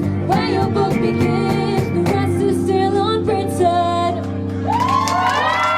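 A live band and singers end a pop song, holding the closing chord with sung runs over it. Near the end the audience starts whooping and cheering over the ringing chord.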